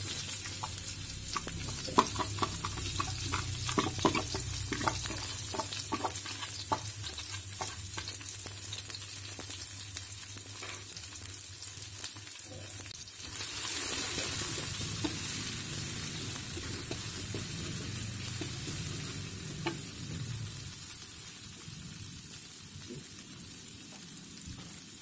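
Chopped shallots, garlic, red chillies, galangal and a bay leaf sizzling in hot oil in an aluminium wok. The sizzle starts suddenly as they go in, with many clicks and scrapes of utensils against the wok in the first several seconds. It swells briefly about halfway through, then settles to a steady hiss.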